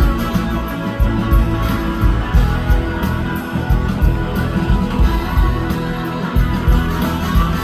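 Live band playing an instrumental passage of a soul-rock song, electric guitar out front over bass and a steady drum beat.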